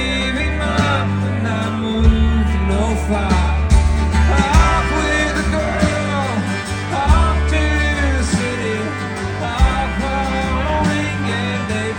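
Country band playing live, with a sung vocal over strummed guitar, bass and a steady drum beat.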